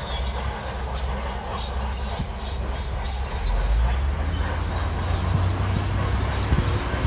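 Shantui D17 crawler bulldozer working: a steady diesel drone with the clanking and squeal of steel tracks.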